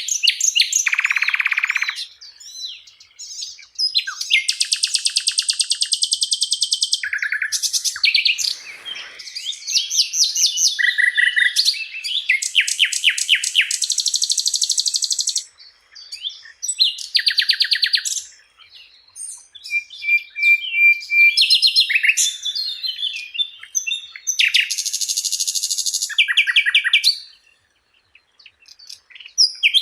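A Sikatan Londo, a flycatcher kept as a song-tutor bird, singing a long, varied song: phrase after phrase of rapid, fast-repeated notes, trills and chatters, high-pitched, with short pauses between phrases and a brief gap near the end.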